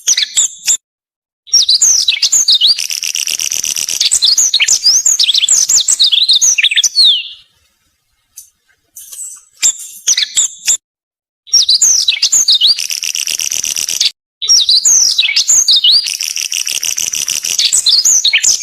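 Olive-backed pipit singing: long phrases of fast, buzzy trills laced with sharp sweeping whistles, in several bursts of a few seconds that cut off suddenly into silence.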